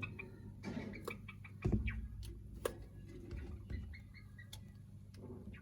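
Java sparrows giving short, soft high chirps among scratching, rustling and clicks, with one louder thump a little under two seconds in.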